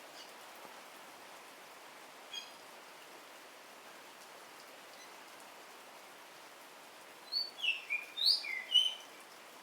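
Javan myna singing: one short call about two seconds in, then near the end a loud run of quick whistled and chattering notes sliding up and down. Steady rain hiss underneath.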